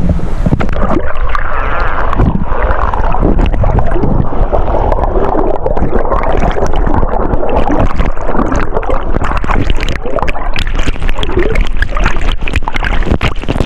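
Strong waterfall current rushing and churning right at the microphone, loud and steady, with many small knocks and splashes of water hitting it.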